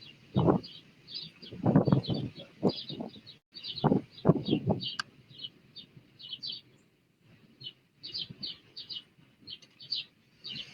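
Small bird chirping in a quick series of short, high notes, several a second, with a pause near the middle. Irregular low thumps, louder than the chirps, come in between.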